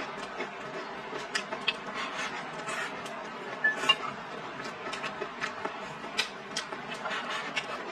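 Close-up eating sounds: a person chewing mouthfuls of rice and stir-fried vegetables, with irregular small wet mouth clicks and crunches and the odd tap of chopsticks in the bowl, one sharper click about four seconds in.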